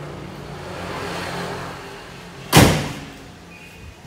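A car engine idling with a steady low hum. About two and a half seconds in comes a single loud, sharp bang that dies away quickly.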